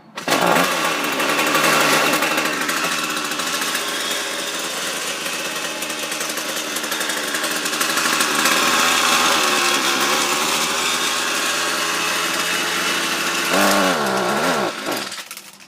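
Ryobi gas string trimmer engine catching on a cold start and running for about fifteen seconds with an unsteady, wavering speed. It revs up briefly near the end, then dies out.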